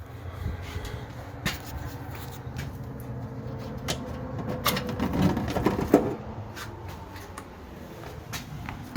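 Handling noise from a multimeter and its test leads being readied: scattered clicks and small knocks, with a denser cluster of rattling knocks about five to six seconds in.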